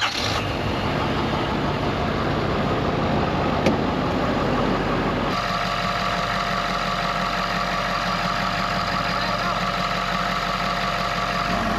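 2011 Ford F350's turbo-diesel V8 starting and running at idle. About five seconds in, the sound settles into a steadier idle.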